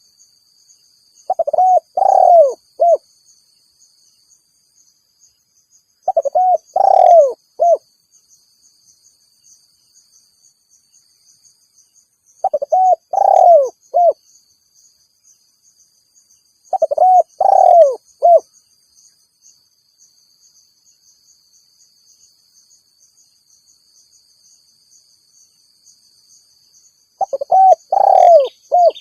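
Spotted dove (tekukur) cooing its rival-challenge call: five phrases of three or four coos each, spaced several seconds apart with silent gaps between.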